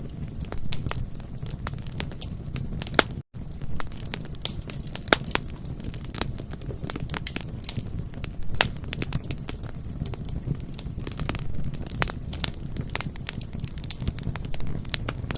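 Bonfire crackling: a steady low rumble of burning with frequent sharp, irregular pops and snaps. The sound cuts out for a split second about three seconds in.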